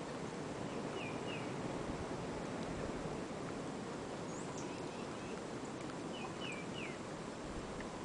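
Small birds giving short chirps a few times, in pairs about a second in and again near the end, over a steady background hiss.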